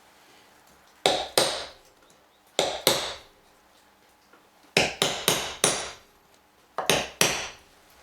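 Hammer driving nails into wood: about ten sharp blows in short groups of two to four, each with a brief ring.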